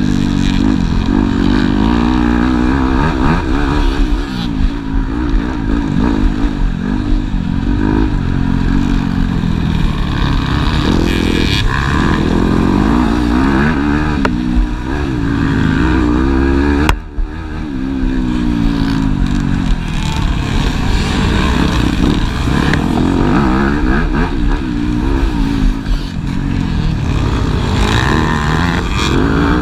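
Motocross motorcycle engines racing, repeatedly revving up and falling back as the bikes accelerate and shift. The sound drops out for an instant a little past halfway.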